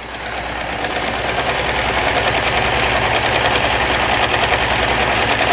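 Usha Janome electric sewing machine running and stitching, with a fast, even needle rhythm. It picks up speed over the first couple of seconds, then runs steadily and stops near the end.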